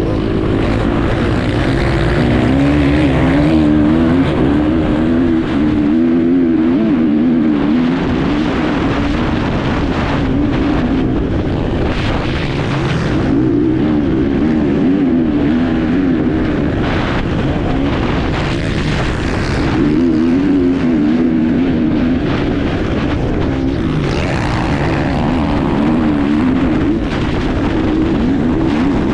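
Enduro motorcycle engine heard on board while racing, its pitch rising and falling over and over as the throttle is worked, with frequent knocks and rattles over it.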